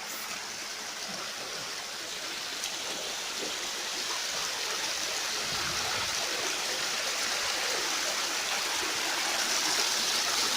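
Steady rushing of flowing river water, growing slowly louder.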